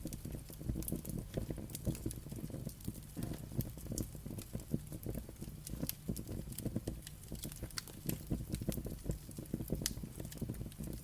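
Wood fire burning with a low rumble and frequent irregular crackles and pops.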